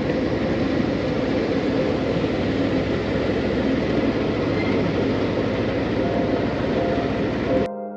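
Narrowboat's engine running steadily under way, a continuous low rumble. It cuts off abruptly near the end and piano music begins.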